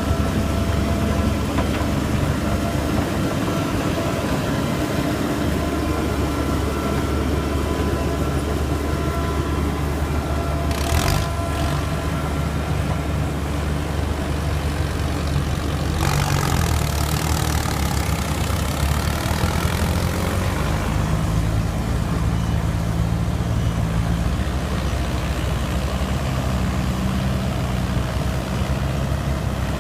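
Yanmar 1185 tractor's four-cylinder turbo diesel engine running steadily under load, hitched to a loaded grain cart. There is a short sharp noise about eleven seconds in, and a few seconds of added hiss from about sixteen seconds.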